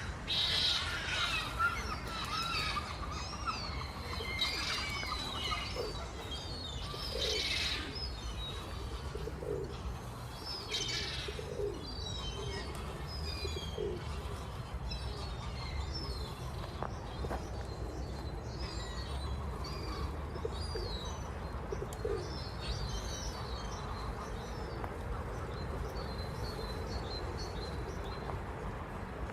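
Many small birds chirping and twittering in overlapping high calls, with a few short rushes of noise near the start and about 7 and 11 seconds in, over a steady low rumble.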